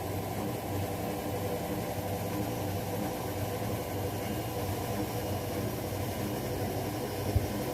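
LG Centum and Zanussi washing machines running together with a steady, even motor-and-drum hum. A single short knock sounds near the end.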